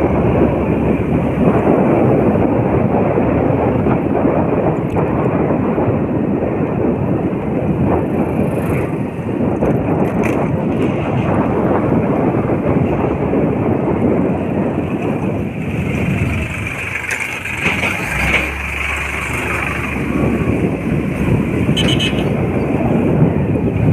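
Steady rushing noise of a vehicle on the move along a road.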